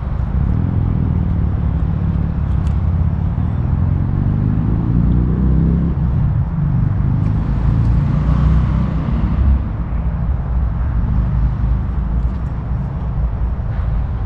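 A heavy engine runs close by with a steady low rumble. Its pitch rises around four to six seconds in, and a hiss swells near nine seconds.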